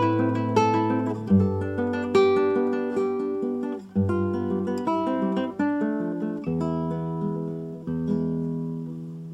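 Acoustic guitar music: plucked notes and chords over bass notes that change every second or two.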